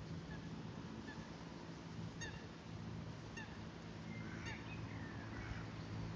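A goose gives three short honks, about a second apart, starting about two seconds in. Faint small-bird chirps sound around them over a steady low background hum.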